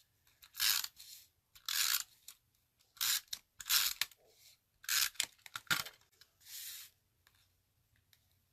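Paper and cardstock being handled on a craft table: about seven short rustles, scrapes and crinkles in quick succession, stopping about seven seconds in.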